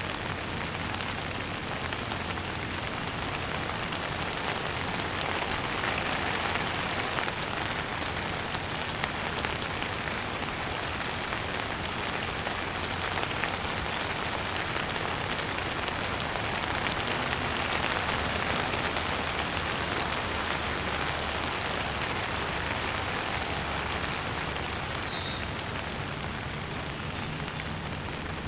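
Steady rain falling on surfaces: an even hiss of many fine raindrops, swelling slightly and easing again.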